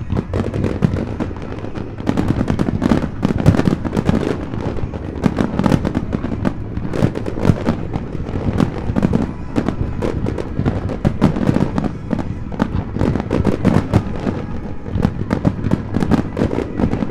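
Fireworks display: a dense barrage of aerial shell bursts, many bangs overlapping and crackling in quick succession, growing louder about two seconds in.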